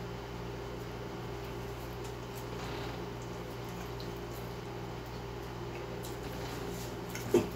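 Soft chewing and fast-food handling sounds, faint and wet, over a steady low hum in the room. A louder short handling noise comes right at the end.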